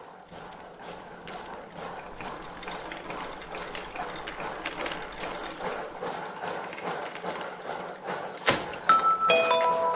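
Rapid mechanical clicking and ratcheting, growing steadily louder, with one sharp click about eight and a half seconds in. A chiming glockenspiel-like melody begins in the last second.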